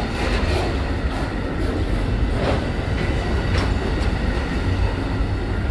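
Amtrak Auto Train cars rolling past close by: a steady low rumble with a few sharp wheel clicks over the rail joints.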